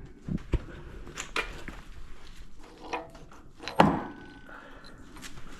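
Scattered light clicks and knocks of hand work on a hydraulic rock breaker's chisel housing, with one sharper knock about four seconds in.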